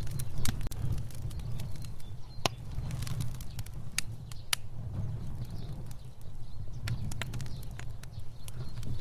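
Fire burning, a steady low rumble of flame with irregular sharp crackles and pops scattered throughout.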